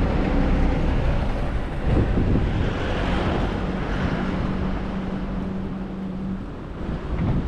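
Wind buffeting the microphone with a low rumble. A passing vehicle rises and fades around the middle, and a steady low hum holds for a few seconds before cutting off near the end.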